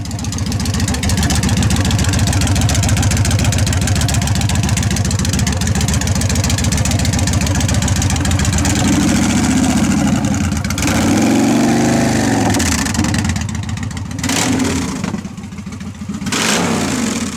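A car engine running steadily, then revved several times in the second half, its pitch rising and falling with each blip.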